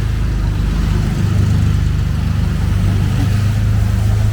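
A motor vehicle's engine running close by with a steady low hum.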